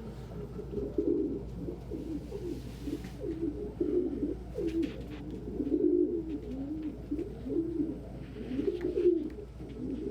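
Several domestic pigeons cooing, their low rolling coos overlapping one after another.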